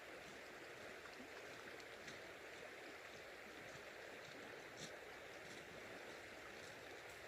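Faint, steady flow of river water, with a few small clicks and ticks.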